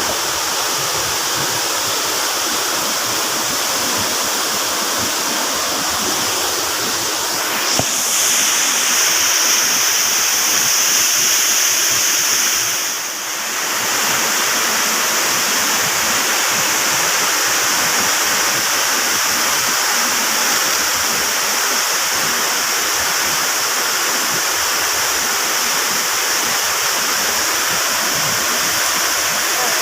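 Waterfall rushing in a steady roar of falling water. About eight seconds in, a high hiss grows stronger, and the sound dips briefly a few seconds later.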